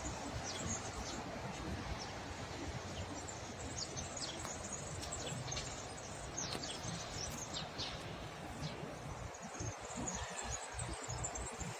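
Outdoor background: small birds chirping in short, quick calls over a steady, fairly quiet hiss, with some uneven low rumbling near the end.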